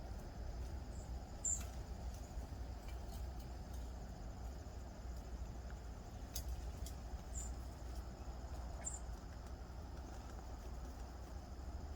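Outdoor ambience at a bird feeder: a steady low rumble with a faint constant high hum, broken by a few brief high chirps and small clicks about one and a half, six and a half, seven and a half, and nine seconds in.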